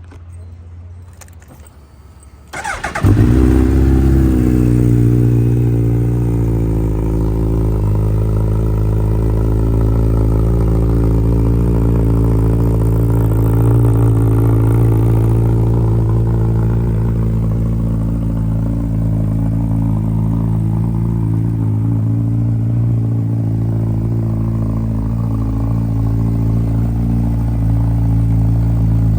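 Suzuki Hayabusa's inline-four with an Akrapovic full-system exhaust cold-started after sitting overnight: the starter cranks briefly about three seconds in, then the engine catches loudly and settles into a steady, loud fast idle whose pitch eases down a little over the next few seconds.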